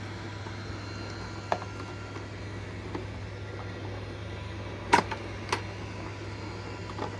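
A few sharp plastic clicks and knocks from robot vacuum parts being handled, the loudest about five seconds in, over a steady low hum.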